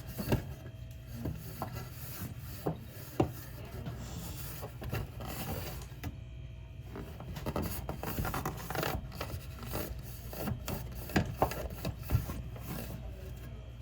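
Wiping and scrubbing the plastic interior of a mini fridge, a rubbing sound broken by irregular clicks and knocks of plastic being handled.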